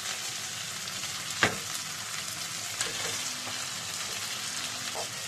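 Diced onion and ginger-garlic paste sizzling steadily in butter and olive oil in a frying pan as raw cubed chicken is tipped in. A sharp knock about a second and a half in, with a couple of softer ones later.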